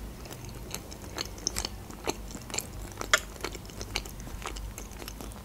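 A person chewing a mouthful of Olivier potato salad close to the microphone: soft, irregular mouth clicks.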